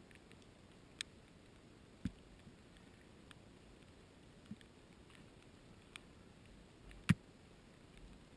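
A handful of scattered sharp clicks and knocks over a faint steady background, the loudest a knock about seven seconds in.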